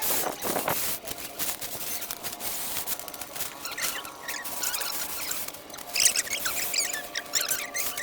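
Scratching and rustling with many small clicks and clusters of short high squeaks.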